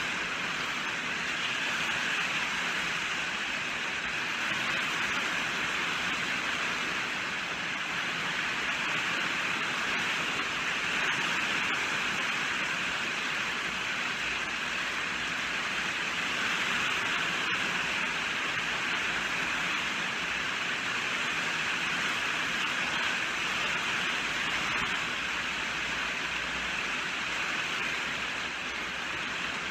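Steady rainfall, an even dense hiss that holds at the same level throughout.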